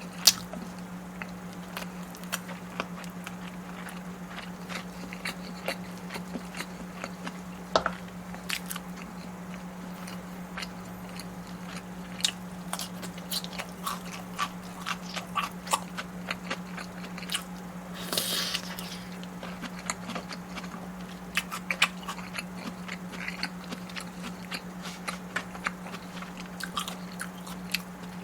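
Close-miked eating: a person biting and chewing with many small crisp clicks and crunches, and a brief rushing sound about two-thirds of the way through. A steady low hum runs underneath.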